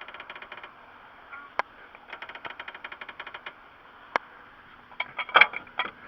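A ratchet clicking rapidly in two runs, about ten clicks a second, then a few sharp metallic knocks and clanks near the end.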